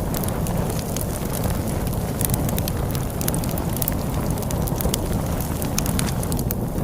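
Wood fire crackling with frequent sharp pops and snaps over a steady low rumble of storm wind.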